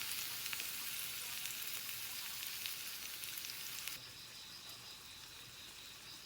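Food sizzling and crackling in a hot pan, a dense hiss full of small pops. It cuts off abruptly about four seconds in, leaving a quieter background with a faint steady high whine.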